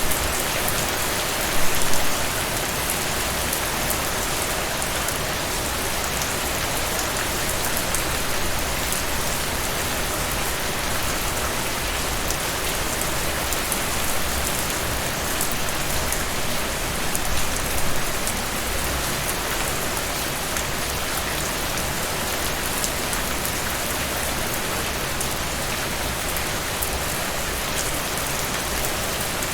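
Heavy rain falling steadily: a dense, even hiss of drops. It briefly swells louder about two seconds in and again a little past halfway.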